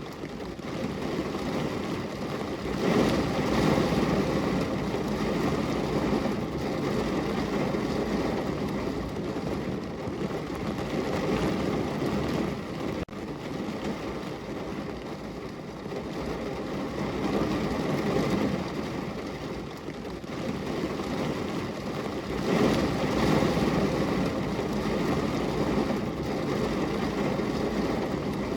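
Heavy rain falling, a dense steady hiss that swells and eases every several seconds.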